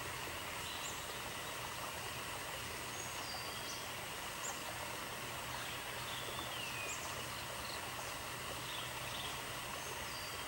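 Outdoor nature ambience: a steady hiss with a faint low hum beneath it, and short high chirps and whistles scattered throughout.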